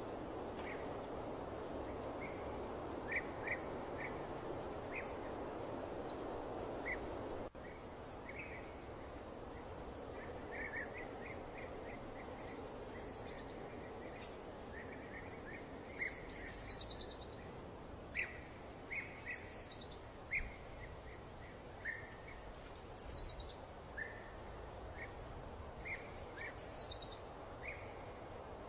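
Birds singing over a steady background hush: short repeated chirps, and from about halfway in a high, falling song phrase repeated every few seconds. The hush drops off abruptly about seven seconds in.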